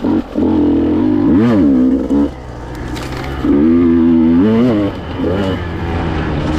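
KTM EXC 150 two-stroke enduro engine revving hard in bursts: held high, dipping and climbing back about a second and a half in, easing off after about two seconds, then pulled high again for about a second near the middle before falling away.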